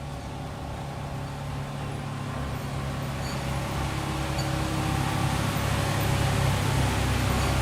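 A motor vehicle engine running steadily with a low hum, growing gradually louder.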